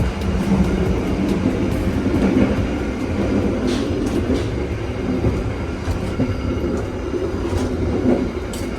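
Passenger train running along the track: a steady low rumble with scattered clicks from the wheels and rails.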